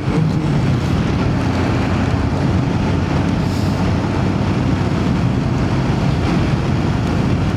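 Voge DS525X parallel-twin motorcycle engine running steadily at cruising speed, with wind noise.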